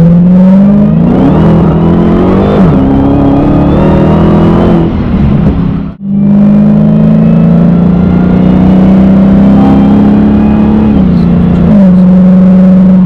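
Dodge Challenger SRT Hellcat's supercharged V8 accelerating hard, heard from inside the cabin: the engine pitch climbs and drops back at each upshift, with a rising supercharger whine over it. It cuts out briefly about six seconds in, then holds a steady pitch before one more shift.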